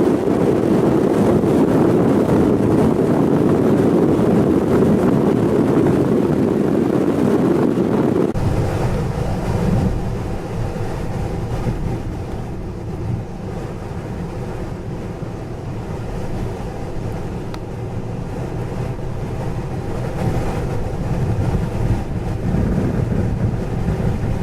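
Strong blizzard wind blowing across the microphone as a dense, loud rush. About eight seconds in it cuts suddenly to a lower, steady rumble of wind mixed with vehicle noise.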